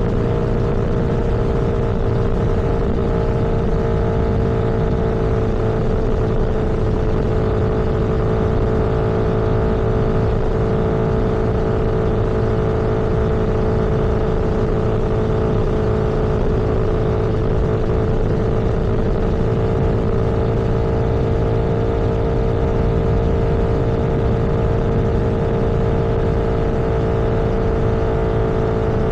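A road vehicle cruising at a steady speed: a constant engine and road drone with one steady tone and no change in pitch.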